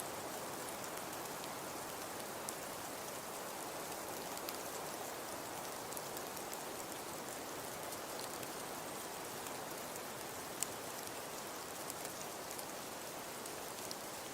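Crackling wood fire in a fireplace: a steady soft hiss with scattered small crackles, and one sharper pop about ten and a half seconds in.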